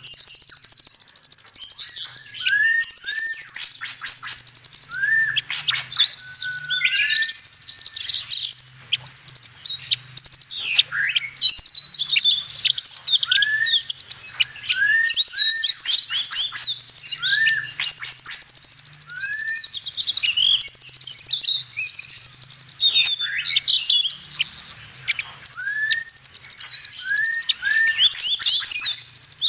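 Bird-lure recording of small birds calling: long, very fast, high-pitched buzzing trills a few seconds each, alternating with short rising chirps and busy twittering.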